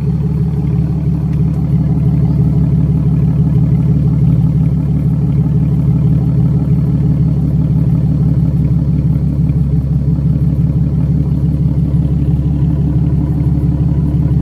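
Nissan 370Z's 3.7-litre VQ37VHR V6 running through a modified exhaust with resonated test pipes and a Y-pipe cut into an X-pipe: a steady, deep, even exhaust rumble with no revving.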